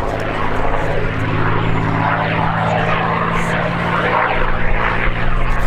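P-51D Mustang's Merlin V12 engine and propeller droning steadily as the fighter flies past.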